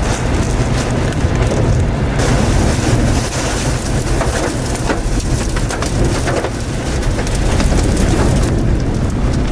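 Heavy rain falling, with a steady low rumble beneath it.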